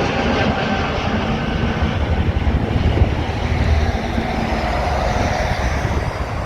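Jet engines of an Airbus A321 climbing out after takeoff: a steady, heavy rumble that eases off a little near the end.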